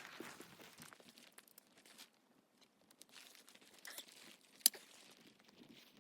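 Irregular crunching and crinkling handling sounds, with one sharp click about three-quarters of the way through.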